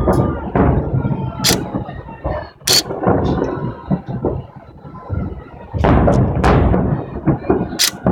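Fireworks salute: deep booms of shells bursting, with a few sharp cracks and a dense run of booms about six seconds in.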